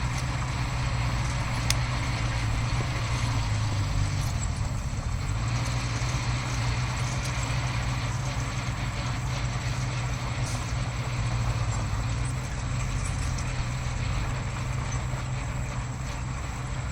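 Diesel engine of heavy earthmoving machinery running steadily under load, with a continuous mechanical clatter. The engine note shifts briefly about four seconds in, then settles again.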